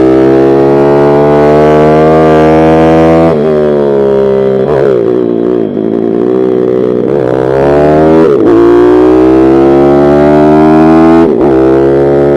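Pit bike engine running hard with a strong, steady note. The pitch sags from about three seconds in and climbs again, with several sharp breaks in the note along the way.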